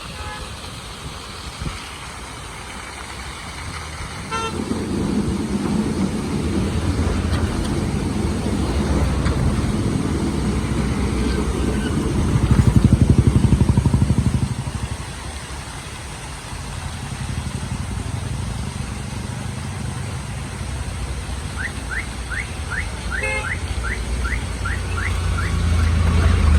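Motor vehicles on a road: an engine grows louder about four seconds in, is loudest with a fast pulsing around the middle, then eases off. There is a short horn toot near the start and another near the end, and a run of quick high chirps late on.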